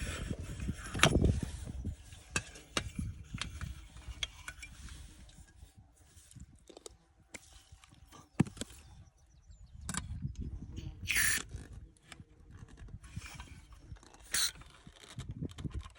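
Irregular clicks, knocks and scrapes over a low rumble. A sharp knock comes about eight seconds in, and brief hissing scrapes come about eleven and fourteen seconds in.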